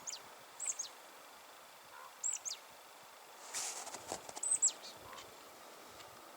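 Small birds calling: short, high chirps that drop sharply in pitch, heard in small groups several times. A brief rustle comes about halfway through.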